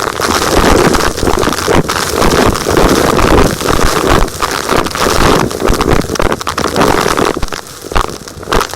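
Gritty, crumbly material being crunched and scraped in uneven strokes, a dense crackling grind with many small clicks; it eases for a moment near the end.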